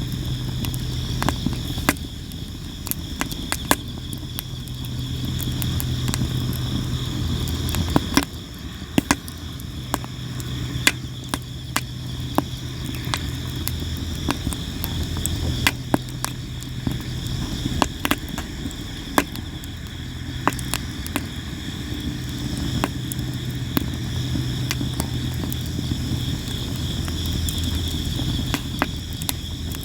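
Sawara (Japanese cypress) wood campfire crackling, with frequent sharp pops at irregular intervals. Crickets chirp steadily underneath, along with a low, wavering rumble.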